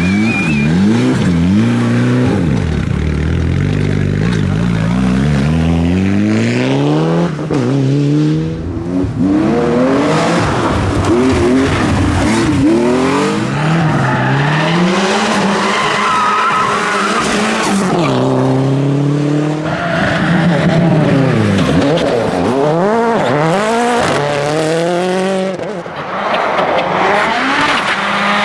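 Rally car engines revving hard at full throttle, rising in pitch and dropping back again and again through gear changes, with tyre skidding on the stage.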